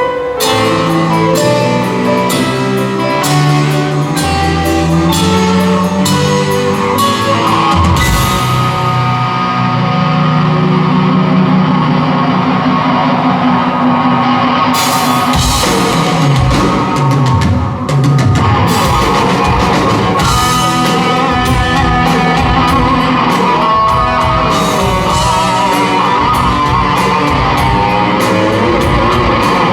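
Live rock band playing an instrumental passage on electric guitar, bass and drum kit. The cymbals drop out for several seconds near the middle, then the full band comes back in, with a guitar note bending up and down later on.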